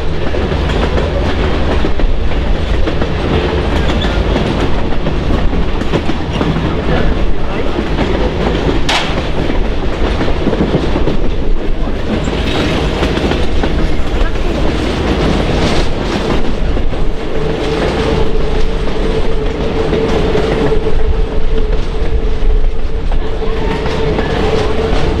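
Train running on rails, a loud steady rumble with wheels clicking over rail joints. A steady whining tone joins about two-thirds of the way in.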